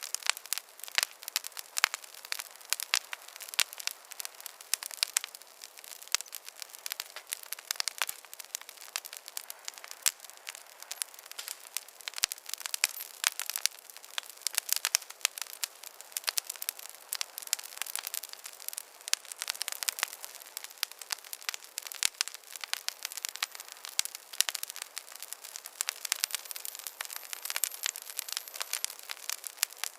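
Wood campfire crackling steadily, with dense sharp pops and snaps many times a second over a faint hiss.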